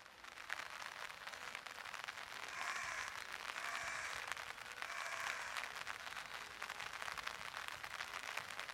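Rain falling and pattering on surfaces, a dense steady crackle of drops.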